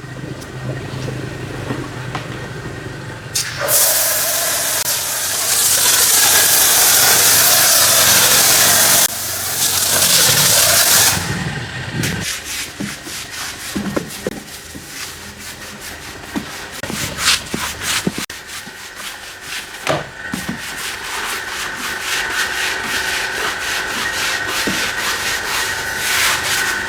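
Pressure washer spray hissing for about seven seconds, starting about three seconds in and cutting off abruptly. After it come rapid rubbing and scrubbing strokes, with a steady high whine joining in toward the end.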